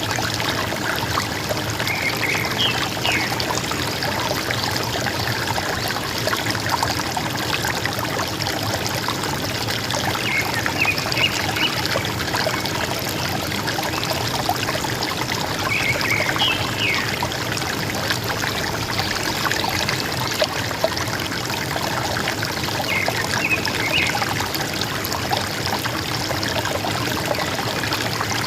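River water gurgling and trickling steadily, with a forest bird giving four short bursts of calls several seconds apart.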